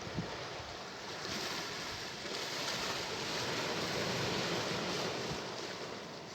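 Sea waves washing in: a rushing surf that swells from about a second in, is loudest around the middle and eases off near the end. A brief low thump sounds just after the start.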